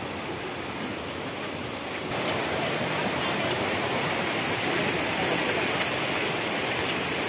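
Waterfall in full flow after rain: a steady rush of water. About two seconds in it jumps suddenly louder and brighter.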